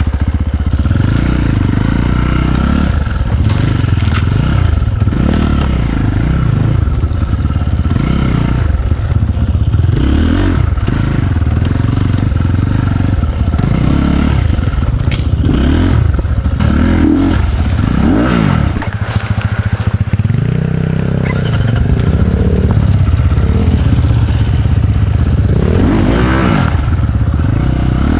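Enduro dirt bike engine being ridden off-road, its revs rising and falling over and over with the throttle, easing off briefly about two-thirds of the way through.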